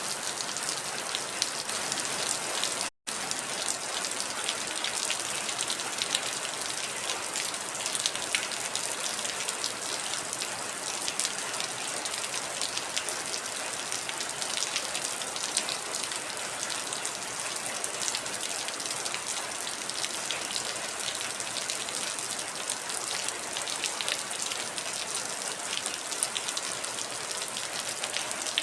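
Heavy rain falling steadily: a dense hiss with many separate drops ticking through it. The sound cuts out completely for an instant about three seconds in.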